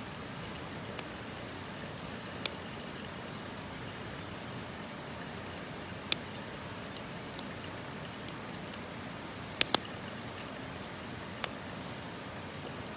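Wood campfire crackling: a steady hiss with half a dozen sharp, isolated pops, the loudest a quick pair about three-quarters of the way through.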